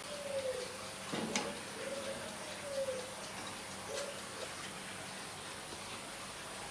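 A dove cooing in short falling phrases, three of them, with a single sharp click about a second in.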